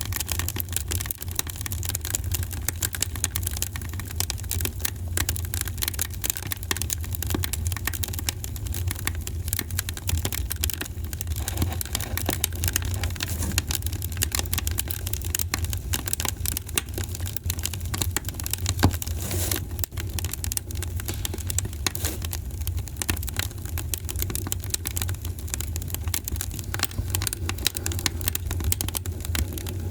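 Fire crackling in a fireplace: dense, rapid pops and snaps over a steady low rumble.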